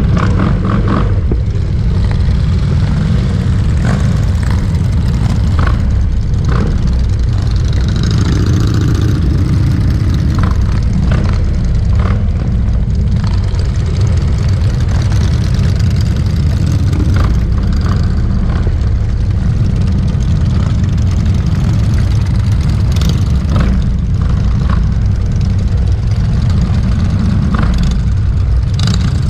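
Many motorcycle engines rumbling together in a steady, loud, low drone, with scattered short clicks and rattles above it.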